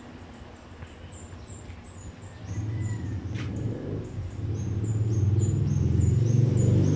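A small bird chirping over and over, short high notes about three or four a second. From about halfway in, a loud low drone builds up and becomes the loudest sound.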